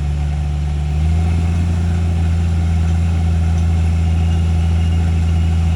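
Jeep engine running slowly while rock crawling, stepping up a little in speed and loudness about a second in, then holding steady.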